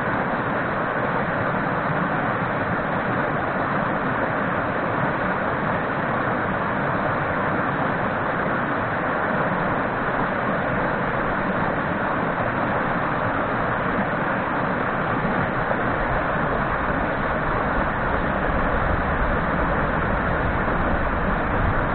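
Mountain stream rushing steadily over rocks, with a continuous even roar of water; low rumble, likely wind on the microphone, grows stronger near the end.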